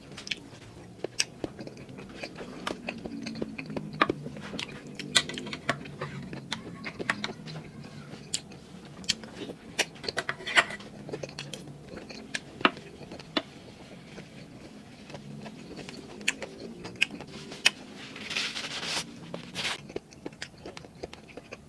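Close-miked eating of grilled balut (duck embryo): wet chewing and mouth smacking with many sharp clicks, and low humming at times. A brief hissing noise comes near the end.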